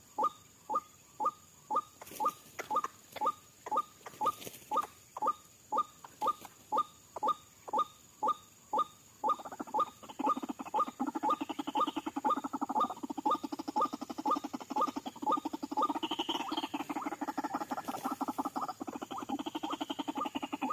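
White-breasted waterhen (ruak-ruak) calling in a lure recording. It gives a monotonous series of repeated croaking calls, about two a second, and about nine seconds in these break into a faster, denser run of overlapping calls.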